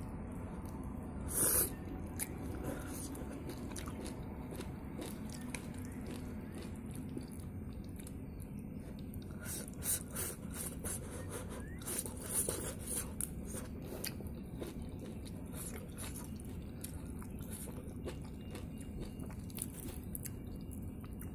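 A person chewing and biting instant noodles and leafy greens close to the microphone, with scattered short, sharp mouth and chopstick sounds over a steady low background noise.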